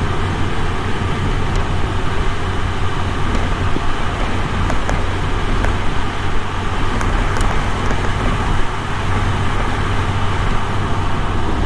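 Exhaust of a 2003 Subaru Legacy BP5's turbocharged EJ20 flat-four, recorded at the muffler outlet with the engine running steadily. The owner judges the muffler outlet free of the abnormal noise the engine is making.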